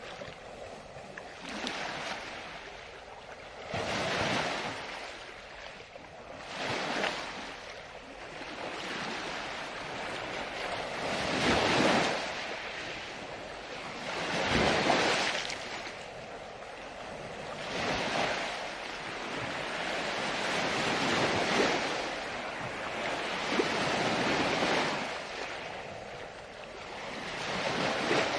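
Ocean waves breaking and washing on the shore, one surge after another every few seconds, each swelling and then fading.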